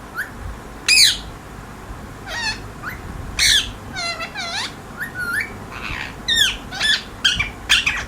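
Pet parrot calling: a string of short squawks and gliding whistles, a call every half second to second, loudest about a second in and again about three and a half seconds in.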